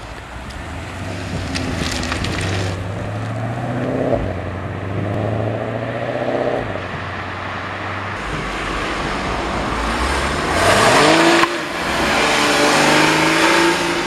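Porsche GTS sports-car engines accelerating and driving by, their pitch rising through several pulls. About ten seconds in comes the loudest run, which stops abruptly, and then the engine rises again.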